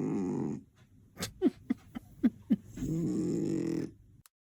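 A sleeping cat snoring loudly: two long, rough snores about three seconds apart, with a few short squeaks between them.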